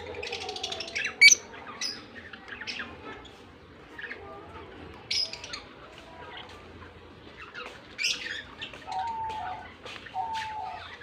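Pet lovebirds chirping and squawking in many short, sharp high calls, the loudest about a second in. Near the end a lower, steadier call repeats about once a second.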